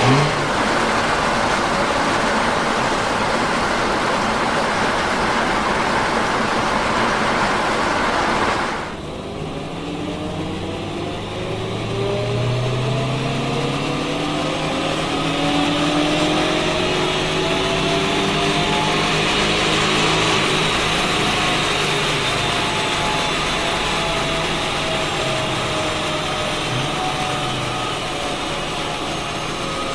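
Volkswagen Golf GTI Mk8's turbocharged 2.0-litre four-cylinder on a chassis dyno. For the first nine seconds a loud rushing noise, with the revs falling at the end of a run. After a sudden change, the engine is heard from inside the cabin, its pitch rising steadily as it accelerates in fourth gear. Then, in neutral, the sound slowly falls as the car coasts down on the rollers.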